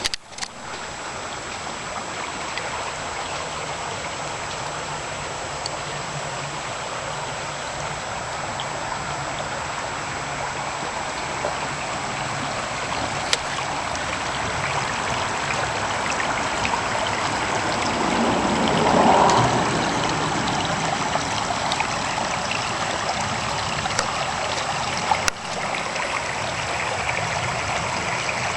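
Floodwater rushing down a driveway with a steady, even sound of running water. It swells louder for a second or two about nineteen seconds in. A few faint clicks sound over it.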